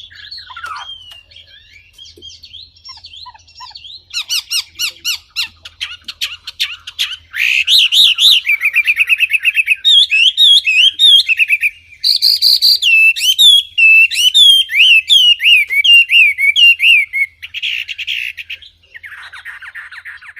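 Wambi songbird singing a varied song: quieter calls at first, then rapid repeated notes, a fast trill, and a long run of repeated looping whistled notes, about three a second, before it tails off into softer chatter near the end.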